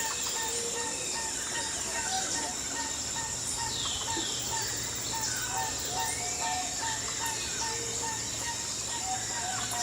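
Birds calling over a steady high-pitched insect drone. One bird repeats a short low note two or three times a second, and others give quick downward chirps.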